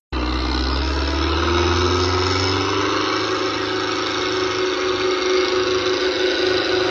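Belarus 510 tractor's diesel engine running, its pitch rising slowly over the first few seconds as it picks up revs, then holding steady.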